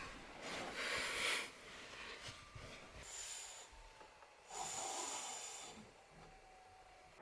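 A person's noisy breathing, three long rasping breaths about two seconds apart.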